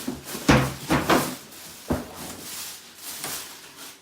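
Knocks and bumps of a boxed pressure washer being tipped and handled in its packaging, several sharp ones in the first two seconds, then quieter rustling.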